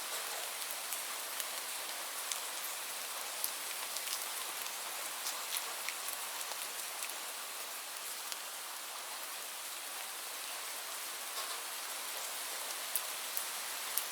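Steady rainfall: an even hiss with many individual drops ticking on a surface.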